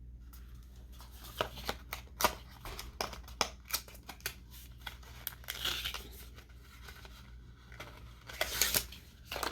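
A small false-eyelash box of cardboard and plastic being handled and opened: a string of sharp clicks and taps, then rustling, with a louder rustle near the end.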